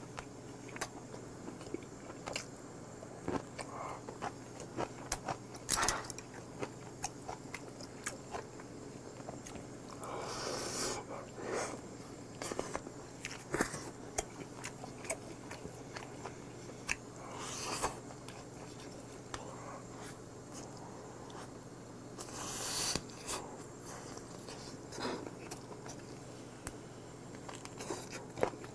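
Close-miked eating: chewing and biting on boiled red snow crab and chicken, with many small clicks and cracks of shell and bone. A few longer, noisier stretches break in, three times.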